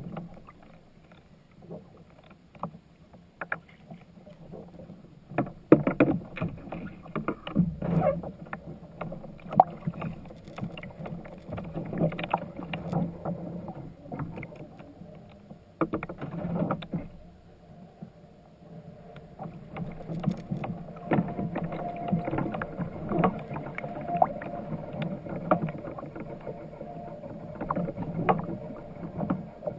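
Sounds of a fishing kayak on the water: a steady low rumble broken by many irregular knocks and clicks against the hull.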